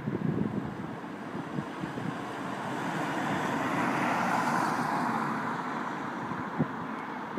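Airbus A380 airliner's four jet engines, a broad rushing roar that swells to a peak about halfway through and then fades as the aircraft passes.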